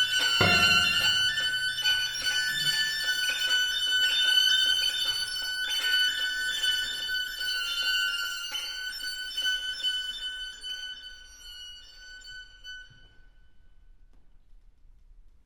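String octet of violins, violas and cellos playing: a heavy low stroke just after the start, then high held violin tones, re-bowed several times, that thin out and die away about twelve to thirteen seconds in.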